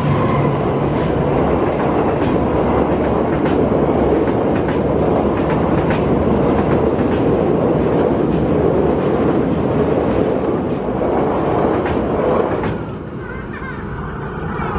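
Passenger train passing close by at speed, a diesel locomotive and then stainless-steel coaches, with a steady rumble and wheels clacking over the rail joints about once a second. The noise drops sharply about 13 seconds in as the last coach goes by.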